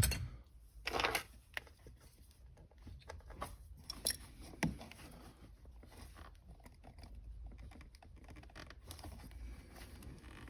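Intermittent handling noises of hand tools and small parts: a knock at the start, a brief scraping rustle about a second in, and two sharp clicks a little past four seconds, with faint ticks between.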